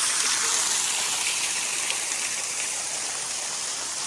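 Waterfall running steadily, an even hiss of falling and splashing water.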